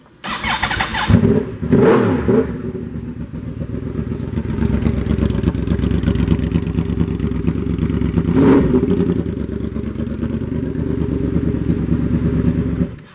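2012 Yamaha R1's 998 cc crossplane inline-four, breathing through an aftermarket exhaust that is definitely not quiet, starts and is blipped a couple of times in the first few seconds, then idles steadily. It gets one more quick rev about eight seconds in, and stops suddenly near the end.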